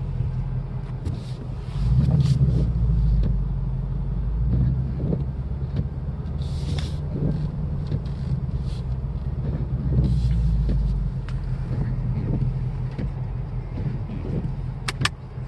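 2018 Ford Mustang GT's 5.0-litre V8 heard from inside the cabin as the car drives slowly on snow, a steady low drone that grows louder from about two seconds in until about eleven seconds, with scattered light clicks over it.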